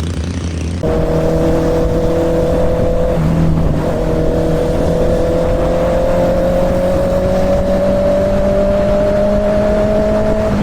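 Honda CB650R inline-four with an aftermarket slip-on exhaust pulling hard at highway speed. The engine note steps up about a second in, breaks briefly around three seconds in as if on a gear change, then rises steadily in pitch as the bike accelerates, with wind noise underneath.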